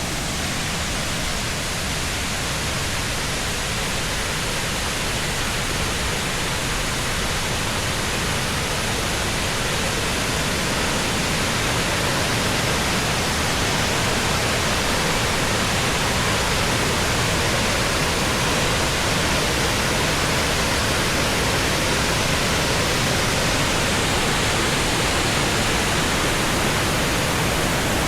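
Rushing water of a waterfall stream cascading down limestone tiers: a steady, even rush that grows slightly louder about ten seconds in.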